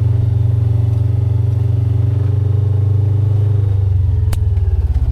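Motorcycle engine running steadily with a low, even pulsing, settling slightly lower in pitch near the end, with a single sharp click partway through.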